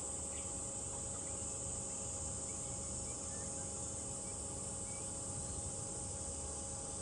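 Summer cicadas singing in a continuous high-pitched drone, with a few faint bird chirps.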